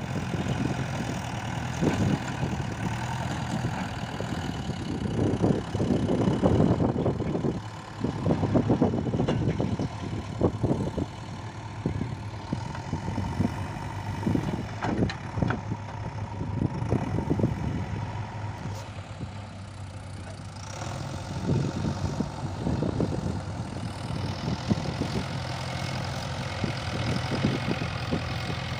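JCB 3DX backhoe loader's diesel engine running steadily, with irregular spells of knocking and rattling as the machine works.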